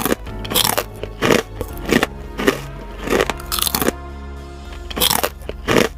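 Crisp crunching of fried food being bitten and chewed close to the microphone, roughly one crunch every half second with a short pause around four seconds in, over background music.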